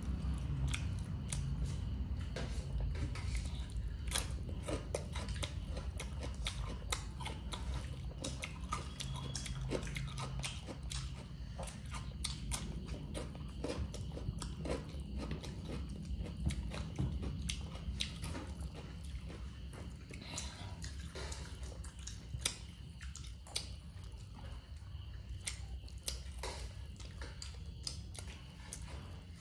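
Close-miked chewing and biting of chicken and cucumber: irregular wet clicks and crunches of the mouth working the food, over a steady low hum.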